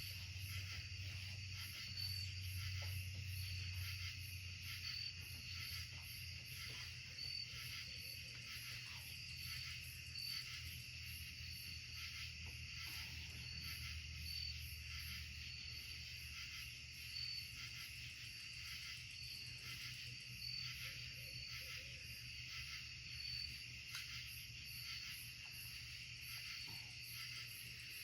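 Night insects chorusing in woodland: a steady, fast-pulsing trill with a brighter chirp every second or two. A steady low hum runs underneath.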